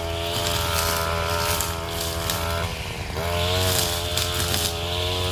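52 cc two-stroke brush cutter engine running at high revs, dipping briefly about halfway through and then rising back up as the throttle is eased and opened again.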